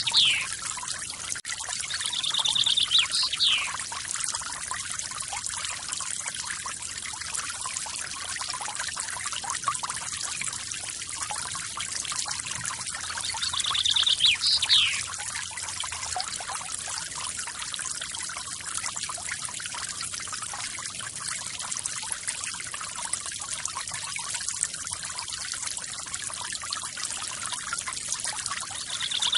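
Forest waterfall water pouring and trickling steadily. A bird calls about four times, each call a short trill followed by a quick downward whistle.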